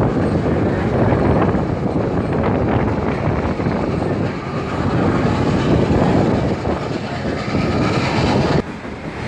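Excursion train's passenger car rolling along the track, heard from aboard: a steady rumble of wheels on rails, dropping sharply in level shortly before the end.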